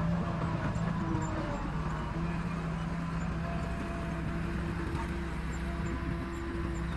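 Heavy diesel earthmoving machinery running steadily, its engine note holding a fairly even pitch and level throughout.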